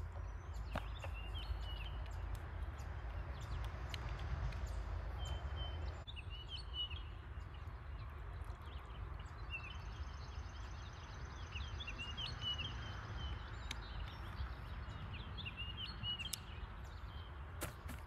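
Small birds chirping in short, repeated calls over a low steady rumble and faint hiss of outdoor air.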